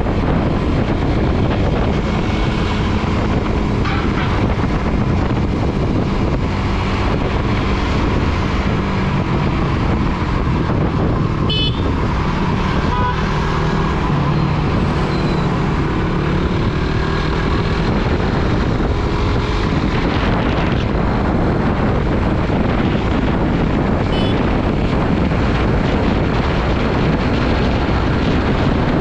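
Suzuki GSX-R150's single-cylinder engine running while riding in city traffic, with heavy wind rushing over the microphone. The engine pitch rises and falls around the middle, and a vehicle horn toots briefly a little before that.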